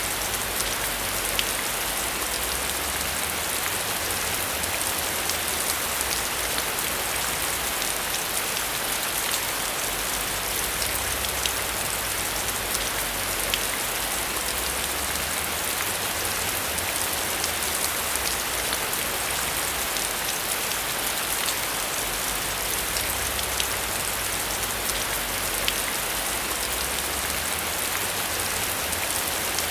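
Heavy rain falling steadily on a metal roof, a dense even hiss scattered with the sharp ticks of single drops, over a low rumble that swells and fades.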